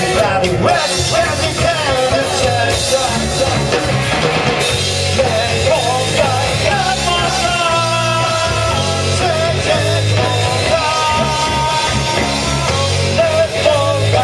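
Rock band playing live, with a singer over bass, drums and guitar.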